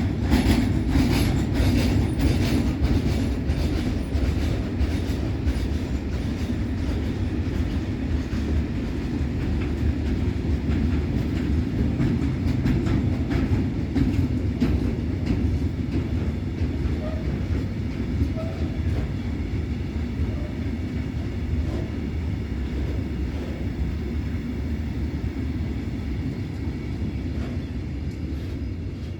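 Freight train wagons rolling past, their wheels clattering over rail joints in quick clicks over a steady rumble. The clatter thins out and the sound fades near the end as the train moves away.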